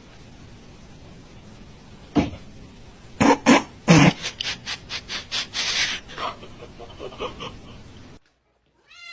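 An animal, likely a pet, making a run of short, sharp sounds over a steady hiss: three loud ones near the middle, then quicker, fainter ones that cut off shortly before the end.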